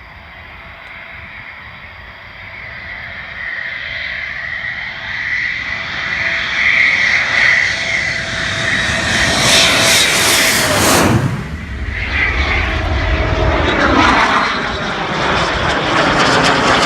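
Military jet flying past close by: its engine noise builds steadily for about ten seconds, sweeps down in pitch as it passes about eleven seconds in, then carries on as a deep rumble as it moves away.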